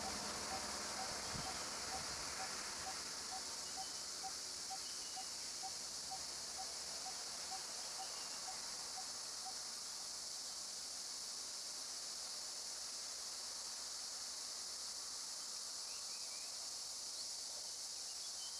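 Steady, high-pitched drone of an insect chorus, crickets or cicadas, in jungle. For the first half a short note repeats about twice a second, then stops, and a few faint chirps come and go.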